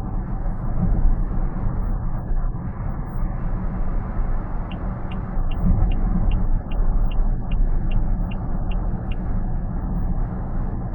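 Steady road and tyre noise inside a car cabin at expressway speed. From just under five seconds in, about twelve short high pips sound at roughly two and a half a second for about four and a half seconds, then stop.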